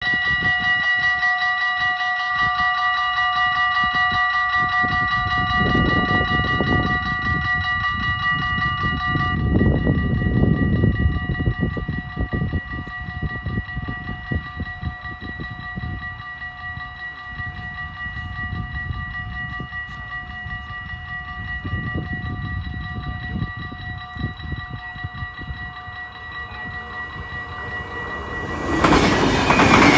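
Dutch level-crossing warning bells ringing steadily, with low rumbles underneath. Near the end a train arrives and its noise suddenly swamps the bells.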